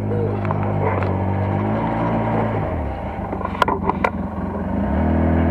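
Off-road buggy engine running with a steady note; the note drops away a little under three seconds in and comes back stronger about five seconds in. A couple of short knocks are heard just before the engine picks up again.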